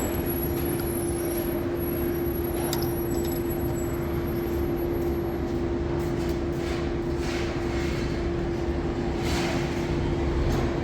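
A steady mechanical hum with a low rumble, with a few light metallic clinks now and then.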